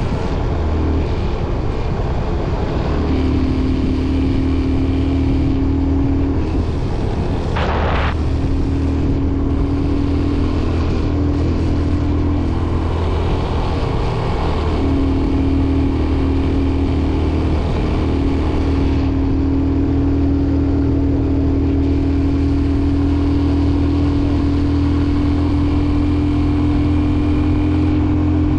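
Motorcycle engine running steadily while riding, its hum rising slightly in pitch over the second half, with a brief hiss about eight seconds in.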